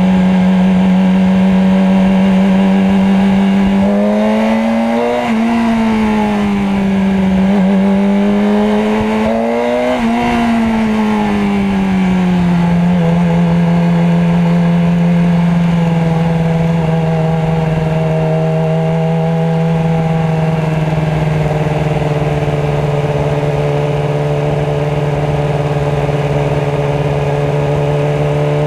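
Motorcycle engine running steadily, its pitch rising and falling twice in the first half, then settling at a lower steady pitch.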